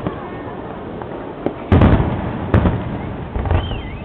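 Fireworks display: aerial shells bursting, with a loud cluster of bangs about two seconds in, a single bang just after, and lighter crackling near the end.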